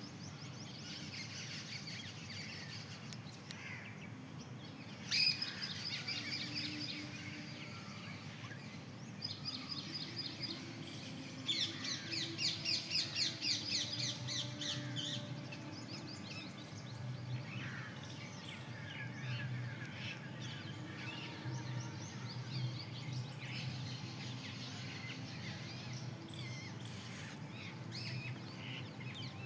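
Several birds chirping and calling, with a busy run of quickly repeated high calls about halfway through. A faint low hum runs under the second half.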